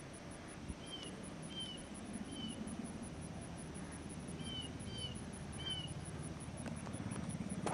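A bird calling outdoors: short, falling chirps in two groups of three, about a second in and again past the middle, over a low, steady outdoor background hum.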